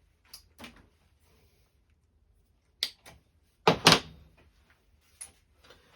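Wire cutters snipping through a ceiling fan's wires, a few sharp clicks, with a louder clunk of metal parts being handled about four seconds in.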